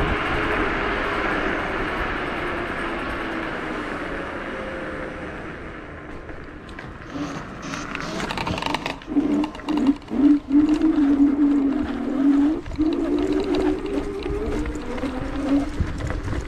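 Electric scooter hub motors whining as they run: a steady whine with wind noise that fades over the first few seconds. About seven seconds in, a lower, wavering motor whine takes over, with a few sharp knocks.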